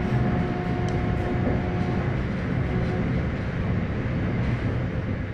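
Passenger train running along the track: a steady rumble of wheels and running gear, with a faint steady whine that fades out about two to three seconds in.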